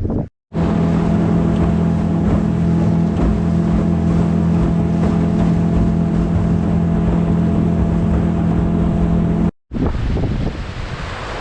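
Boat outboard motor running at a steady, constant speed. It cuts off abruptly near the end, leaving wind and water noise.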